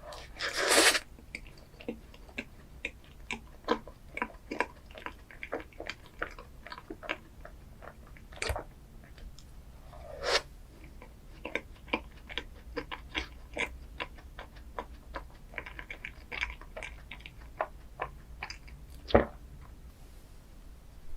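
Close-miked eating of chocolate ice cream desserts: chewing with frequent small crisp clicks and crunches, and a few louder bites, about half a second in, around ten seconds and near the end.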